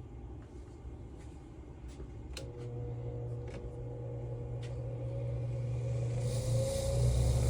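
A few light clicks, then a motor starts running about two and a half seconds in with a steady hum that grows gradually louder.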